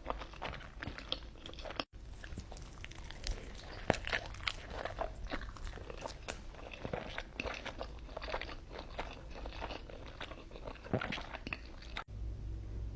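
A person eating crunchy food close to the microphone: repeated crisp crunching bites and chewing, with brief breaks where the recording cuts about two seconds in and near the end.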